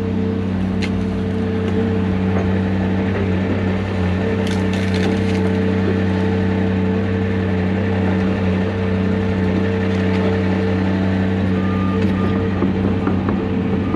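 Heavy diesel excavator engine running steadily under load, with wood cracking and splintering in a quick cluster about four to five seconds in as brush and timber are broken up. A few short high beeps sound near the end.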